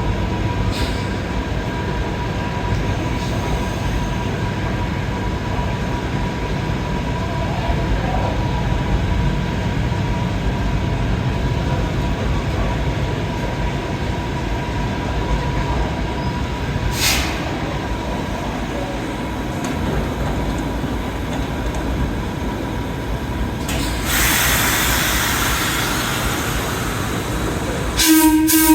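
Train running with a steady low rumble, a stretch of hissing near the end, then a horn sounding loudly in the last moment.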